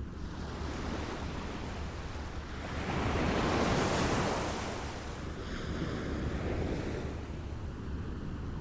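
Small waves lapping at the shore: a steady low rumble of water, with one wave washing in about three seconds in and falling away, and a smaller wash a couple of seconds later.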